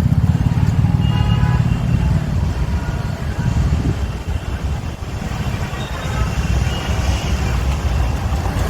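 Highway traffic: a steady low rumble of cars and trucks passing, with faint voices in the background.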